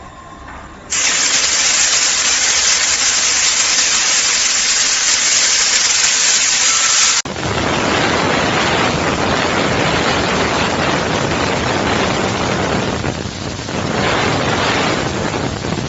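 Steady hiss of a jet of steam from a car steam washing machine, starting about a second in. About seven seconds in it changes abruptly to a fuller, lower spray noise.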